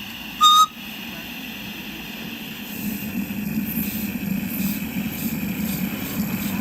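Miniature live-steam locomotive (a GNR Atlantic model) giving one short whistle blast about half a second in, then from about three seconds in its exhaust beats start, a steady chuff of roughly two to three a second as it works along.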